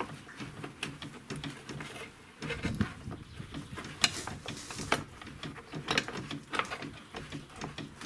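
Irregular metallic clicks and knocks, one sharper than the rest about four seconds in, as a BMW X5 E70's front lower control arm is wiggled and worked into its mounting under the car.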